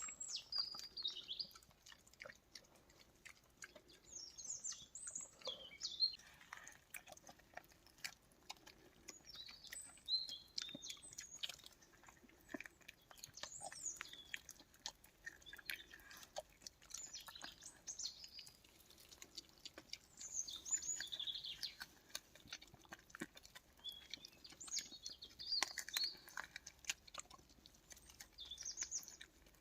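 Small songbirds chirping and singing in short high phrases again and again, with many scattered soft clicks and ticks.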